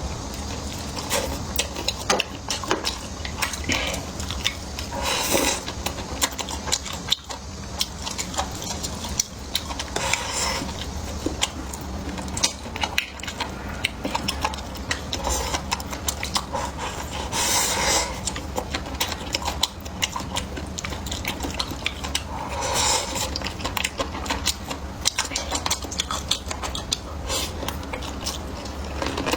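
A person eating close to the microphone: chewing, with utensils clicking against dishes again and again, over a low steady hum.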